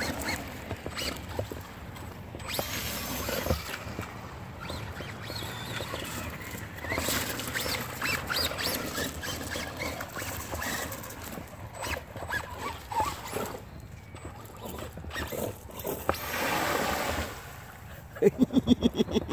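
Brushless electric motors of radio-controlled Traxxas Rustler VXL trucks whining up and down in pitch as the trucks drive through mud and puddles, with the tyres throwing water and mud. A louder rush of spray comes near the end.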